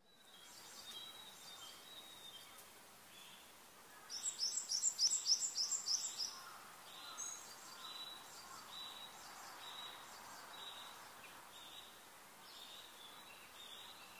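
Birdsong over a steady hiss. About four seconds in comes a fast trill of about eight rising high notes, the loudest part, followed by single high chirps roughly once a second.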